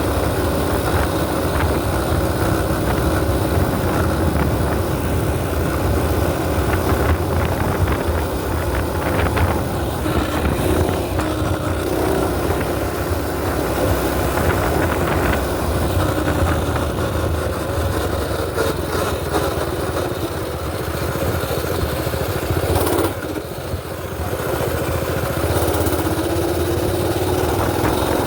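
Mini bike's small pull-start engine running while being ridden, its note rising and falling a little with the throttle, with a brief dip near the end.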